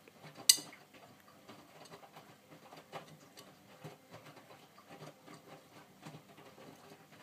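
Miele W562 washing machine's drum turning at the start of the main wash, the wet laundry inside tumbling with an irregular patter of soft knocks and ticks. A single sharper click comes about half a second in.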